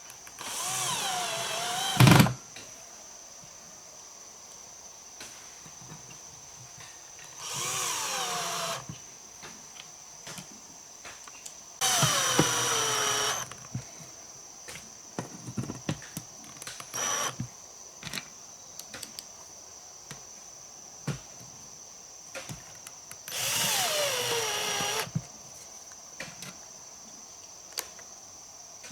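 Power drill run in four short bursts, its whine dropping in pitch during each run as the motor slows under load, as when driving screws; a sharp knock ends the first run.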